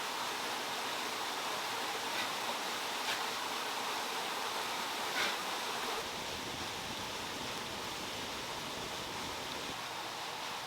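Water running and splashing steadily down a small handmade stone waterfall, with a few faint taps in the first half; the rush steps slightly quieter about six seconds in.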